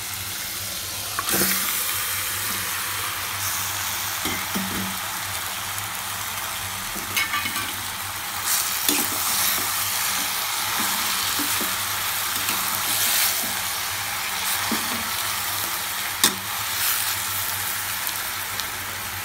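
Marinated chicken pieces sizzling as they go into the hot oil and fried masala in an aluminium pressure cooker, the hiss growing louder about a second in. A slotted spoon scrapes and knocks against the cooker's rim now and then.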